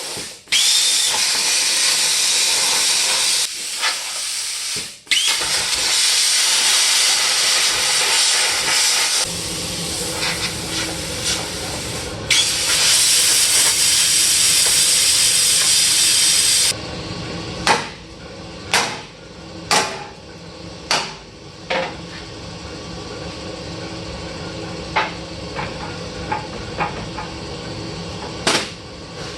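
A metal-cutting tool hissing loudly and steadily as it cuts through a truck's steel frame, with two brief breaks. It stops suddenly about 17 seconds in, and a series of sharp metallic clanks and knocks follows.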